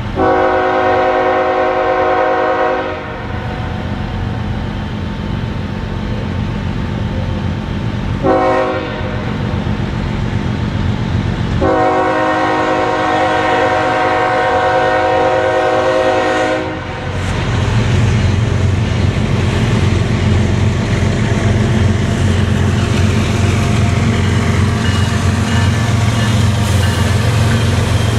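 Diesel locomotive air horn with a several-note chord, sounding a long blast, a short blast and another long blast. After the horn, a loud low engine rumble from the train builds and keeps running.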